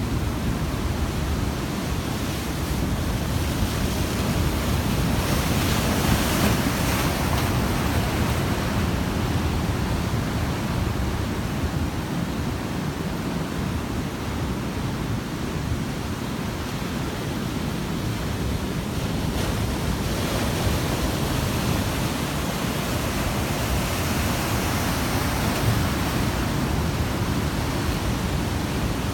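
Heavy surf breaking and washing on a sandy beach in a post-typhoon swell, a continuous roar with wind rumbling on the microphone. It swells louder about six seconds in and again near the end.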